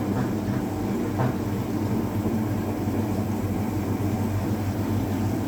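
Hoover Automatic 820 washing machine spinning its drum: a steady motor hum with a few light, regular ticks.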